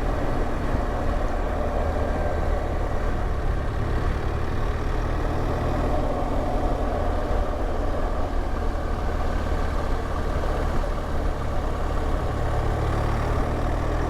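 BMW R1200GS Adventure's flat-twin engine running steadily, a low even drone with no change in pitch.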